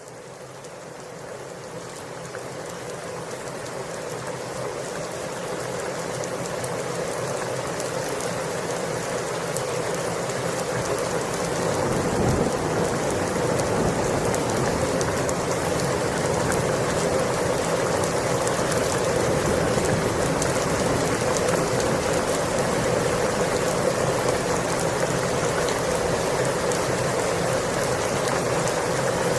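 Steady rain pattering on surfaces, fading in over the first ten seconds or so and then holding steady. A low rumble swells in about twelve seconds in.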